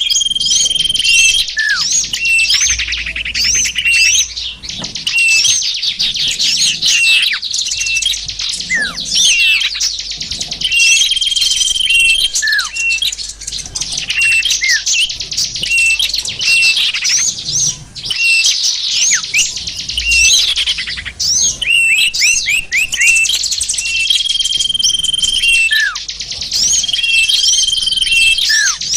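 Bird-lure recording of many small songbirds calling at once: dense overlapping chirps, trills and quick sweeping notes, with a short level whistle that recurs several times.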